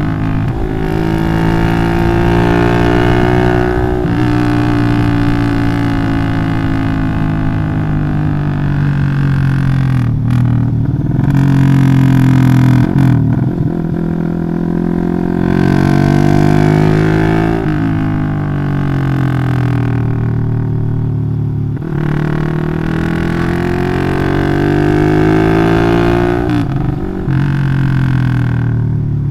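Bored-up 180cc Yamaha Jupiter MX single-cylinder four-stroke engine through a loud Requsan Special aftermarket exhaust, ridden hard. The engine note climbs and drops back several times as it revs up and eases off.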